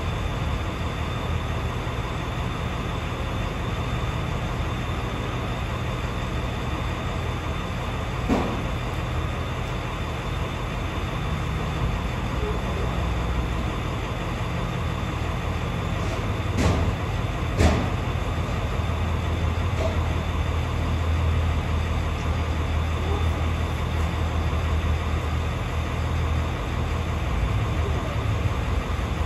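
Vehicle engine idling with a steady low rumble, growing a little louder about two-thirds of the way through, with a few short clicks over it.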